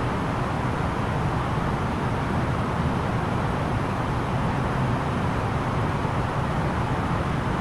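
Steady engine and airflow noise inside the cabin of an Airbus A330-900neo in flight, with its Rolls-Royce Trent 7000 engines running during the descent. It is a low, even rush with no changes or distinct events.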